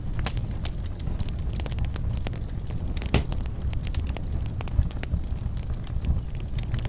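Wood fire crackling in a fireplace: irregular sharp snaps and pops over a steady low rumble of flame, with one louder pop about three seconds in.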